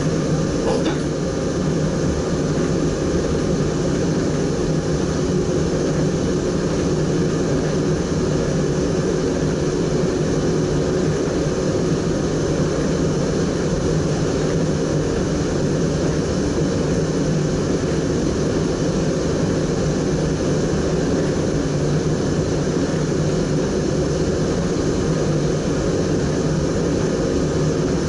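Inside the cab of an NS SGM Sprinter electric train running at speed: a steady rumble of wheels on rails and running gear, with a faint steady hum over it. A few light clicks about a second in.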